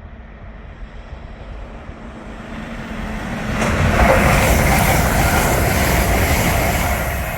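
Lumo Class 803 electric multiple unit passing through at speed: the rush of wheels and air builds, peaks loudly about four seconds in, then slowly fades.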